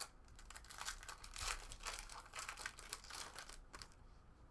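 Crinkling and tearing of a trading-card pack wrapper being handled and opened, an irregular run of crackles that stops near the end.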